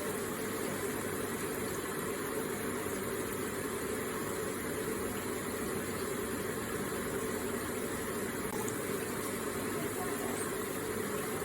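Electric water feature with its pump circulating water that trickles and splashes in a steady, even stream.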